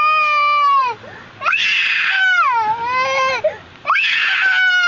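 A three-year-old child screaming and wailing in fright: long, high-pitched cries, each starting harsh and sliding down in pitch at the end, one after another with short gasps between.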